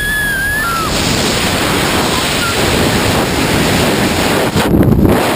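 Rushing wind blasting across the microphone during a skydive, a steady loud roar of air noise that swells near the end. A brief high-pitched cry fades out about a second in.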